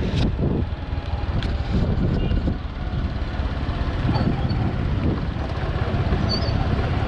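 Steady rumble of a moving vehicle with wind buffeting the microphone. A few faint high chirps come through in the second half.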